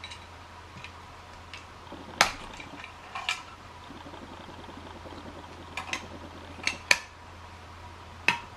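A series of sharp, light clicks and clinks of small hard objects being handled and set down, about seven spread unevenly, over a steady low hum.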